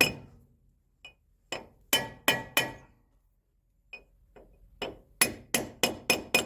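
A hammer tapping a steel wheel-hub inner bearing into the rear hub of a Manitou telehandler. Sharp metallic taps, each ringing briefly, come in quick runs of several blows with short pauses between.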